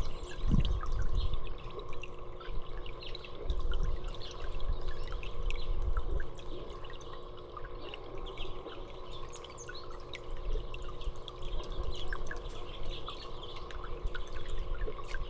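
Small birds chirping: many short, scattered calls overlapping throughout, over a low rumble and a faint steady hum.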